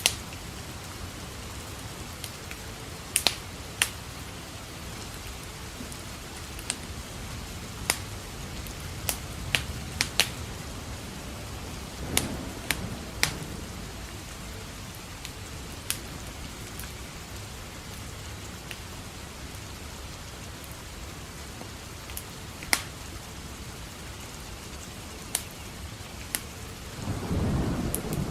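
Steady rain with a wood fire crackling, sharp pops every second or so. A low thunder rumble comes about halfway through, and a louder one builds near the end.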